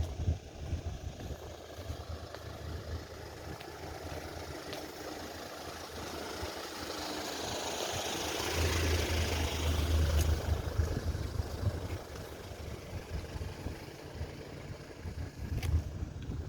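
An engine passing by: a steady noise that swells to a peak, with deep rumble about eight to ten seconds in, then fades away.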